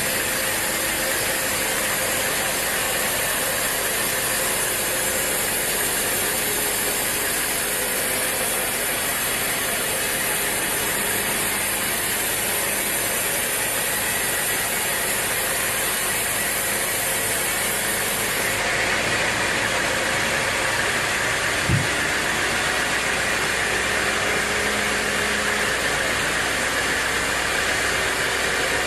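Sawmill machinery running steadily with a dense mechanical clatter. Its sound shifts about two-thirds through, and a single knock comes soon after.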